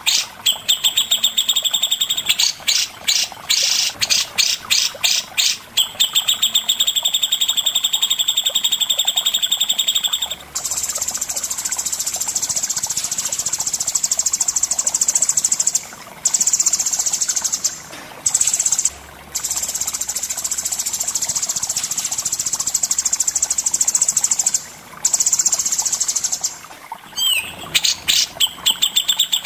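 Cucak jenggot (grey-cheeked bulbul) and cendet (long-tailed shrike) singing. Fast runs of sharp repeated notes come first. About ten seconds in they give way to a long, dense, high chatter broken by short gaps. Near the end there is a quick downward-sliding call, and then the repeated notes return.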